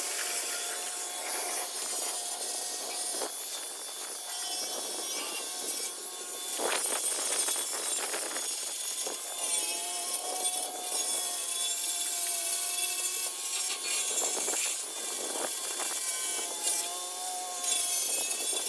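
Rotary buffer with a flannel pad polishing metal: a steady motor whine over a rubbing hiss, its pitch dipping and rising slightly now and then.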